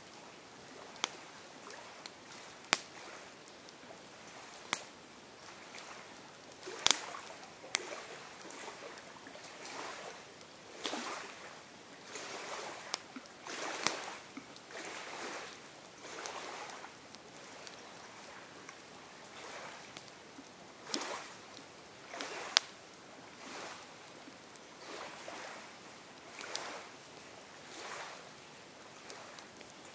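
Campfire burning: wood crackling with sharp pops every few seconds, over a soft hiss of flame that swells and fades about once a second through the middle stretch.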